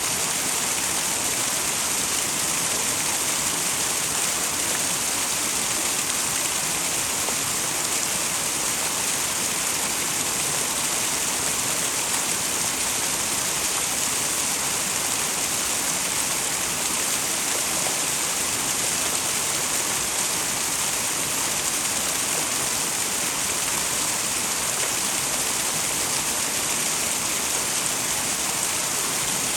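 Small twin waterfall in a mountain stream, water falling and splashing steadily in a continuous, bright hiss.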